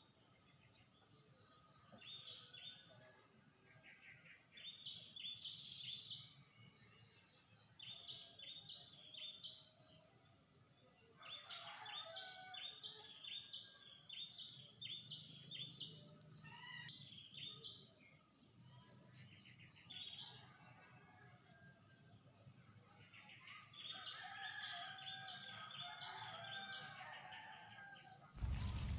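Clusters of short, high bird chirps that come and go, over a steady high insect drone. A louder noise cuts in right at the end.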